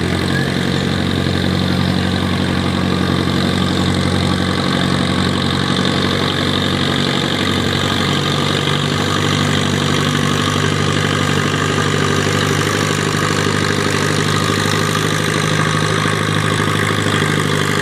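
Farm tractor engine running steadily and loud, its note shifting slightly about eight seconds in.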